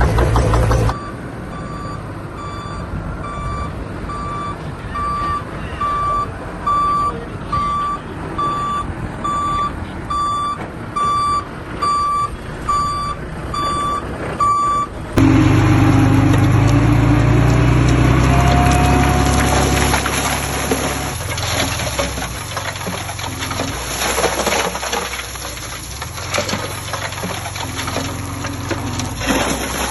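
A heavy truck's reversing alarm beeps steadily about once a second over a running diesel engine. About halfway through, the beeping stops abruptly and a louder heavy-machine engine takes over, with scattered knocks and clanks.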